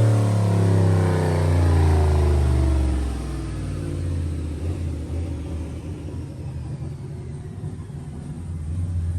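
Turbocharged LS V8 on a chassis dyno, its revs falling steadily over the first three seconds and then settling into an uneven low rumble.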